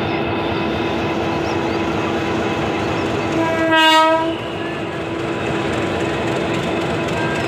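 Passenger train rolling slowly past with a steady hum and rattle of its carriages. A loud train horn blast sounds once, lasting about a second, near the middle.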